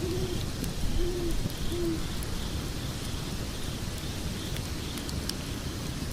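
Log fire burning in a fireplace: a steady low rumble with sparse sharp crackles and pops. Three short, low hoots sound in the first two seconds.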